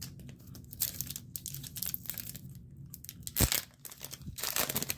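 Crinkling and tearing of a foil trading-card booster pack wrapper being handled and opened, in a run of short crackles, with one sharp thump about three and a half seconds in.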